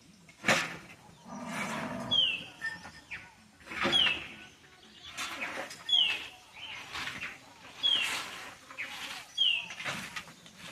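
A bird repeating a short, high whistled note that drops in pitch, five times at about two-second intervals, with brief scratchy noises in between.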